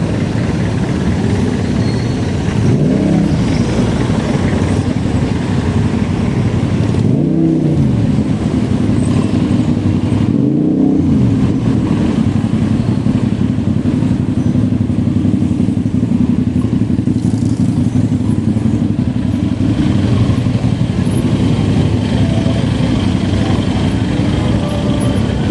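Steady, loud road and wind noise of riding through traffic, with vehicles swelling up and fading as they pass about 3, 7 and 10 seconds in.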